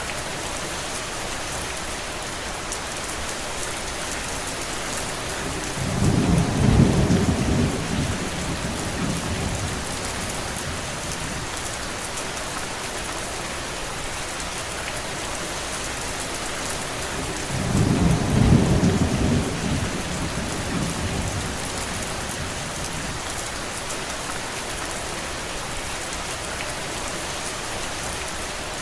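Steady rain falling, with two low rumbles of thunder about twelve seconds apart, each swelling and fading over a few seconds.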